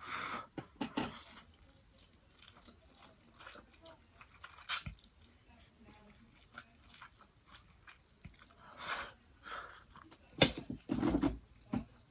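A person chewing and biting food close to the microphone: irregular wet mouth sounds and crunches, with a couple of sharp louder snaps about five and ten seconds in.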